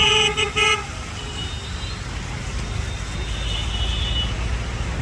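A vehicle horn honks in a quick run of short toots in the first second, over the steady low rumble of road traffic. A fainter high tone comes and goes a few seconds in.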